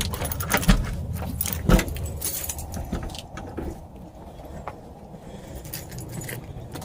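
Keys jingling and clinking, with a few heavy thumps in the first two seconds. After that come quieter, scattered clicks over a low steady rumble, as of someone setting off on foot.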